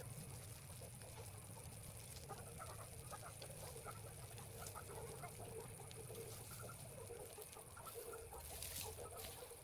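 Chickens clucking softly, a run of short calls from about two seconds in, over a low steady rumble.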